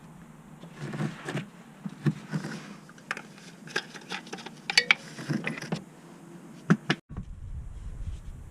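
Scattered metallic clinks and knocks of hand tools and parts being handled, with one sharp ringing clink near the middle. Just after seven seconds the sound cuts off abruptly and a low rumble takes over.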